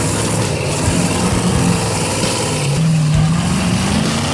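Off-road rock-racing truck engine revving while it works over rocks, its pitch wavering, climbing about three seconds in and then dropping off.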